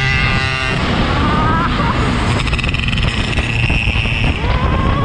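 Yamaha RX-King 135 two-stroke single-cylinder motorcycle being ridden, under heavy wind and road rumble; the engine note rises twice as it is revved. A steady pitched note cuts off under a second in.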